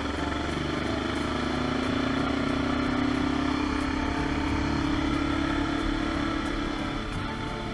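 Kawasaki KLE400 parallel-twin engine running as the motorcycle rides along, its pitch rising over the first couple of seconds, then holding steady before easing off near the end.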